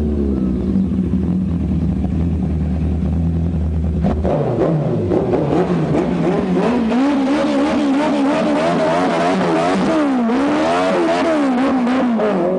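Vehicle engine running: a steady low drone, then from about four seconds in revving up and down over and over.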